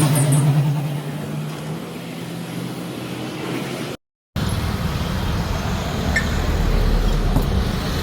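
A steady machine hum that fades away over the first few seconds. After a brief cut, a steady low rumble follows, like a motor vehicle's engine running.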